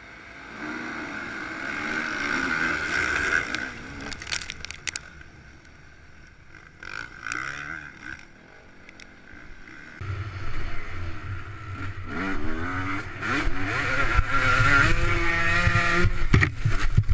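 Motocross bike engines revving, the pitch climbing and dropping as the throttle opens and closes. About ten seconds in, the sound changes abruptly to a louder, lower-pitched engine run.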